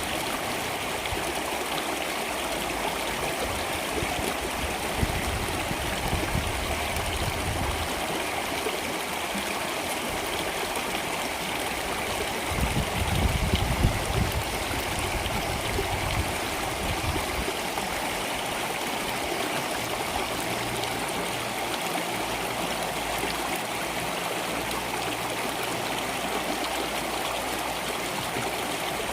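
Stream water flowing, a steady even rush. There is a brief deeper, louder surge about halfway through.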